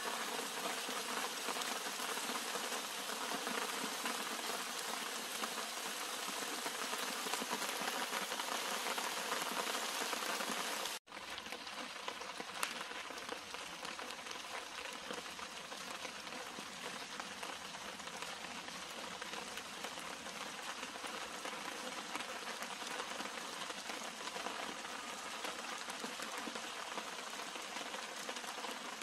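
Steady rain falling on the leaves and flower clusters of garden shrubs, an even patter with no break in the rainfall. It cuts out for an instant about eleven seconds in and goes on a little softer, with one sharper drop tick soon after.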